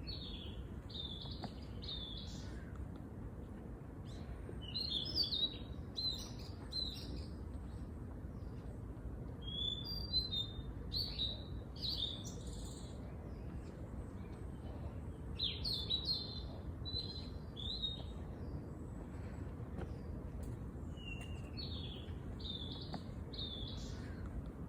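Bird song: short phrases of quick, high chirping notes, repeated about every five to six seconds over a steady low background hum.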